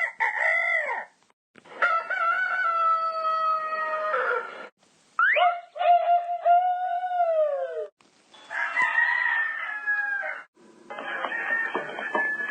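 A string of rooster crows from separate recordings spliced back to back, each drawn-out crow cut off abruptly before the next. There are about four crows in all, and the last is rougher and noisier.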